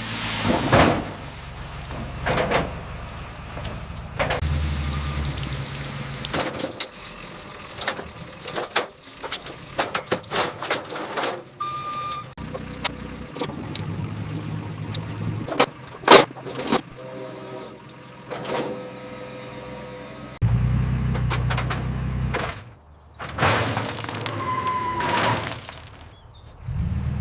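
Metal clanks and clicks from strap and tie-down work, with stretches of a vehicle engine's low rumble that come and go, and a short squeal twice.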